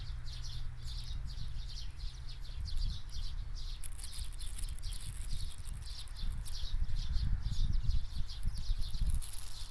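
Many small birds chirping together, a dense run of short, high chirps overlapping one another, over a low rumble that grows louder in the second half.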